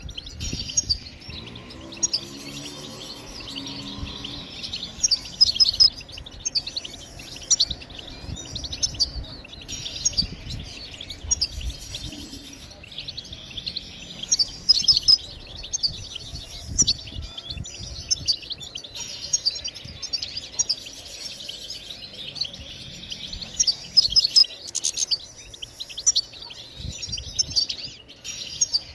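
European goldfinch chatter: a continuous high twittering with louder bursts of sharp chirps and trills every second or two. This is the call chatter goldfinch keepers play to stimulate goldfinches to sing.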